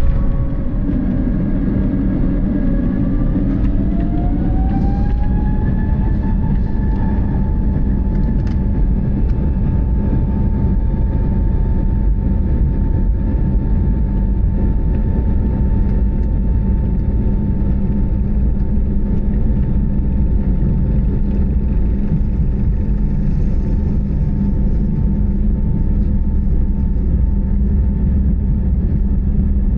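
Airbus A320-family airliner's jet engines spooling up, heard inside the cabin: a whine that rises in pitch about three to six seconds in, then holds steady over a loud, constant low rumble, as during the take-off run.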